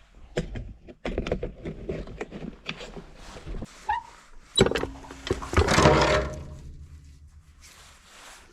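Handling noise of work at a concrete mixer's central bearing: a run of knocks and clicks, then a louder stretch of scraping with some ringing metal about halfway through.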